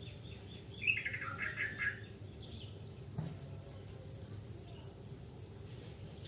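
Rhythmic high-pitched chirping, about four chirps a second, stops briefly, and in the gap a small bird gives a short, fast trill that falls in pitch. The chirping starts again about three seconds in, with a soft thump.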